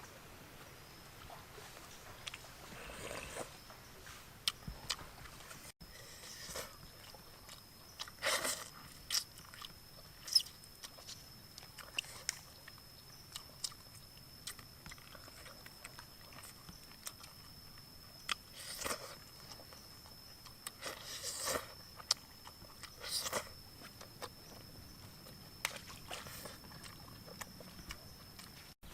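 Person eating cooked frog, chewing and crunching in short irregular bursts. A faint steady high-pitched whine continues in the background.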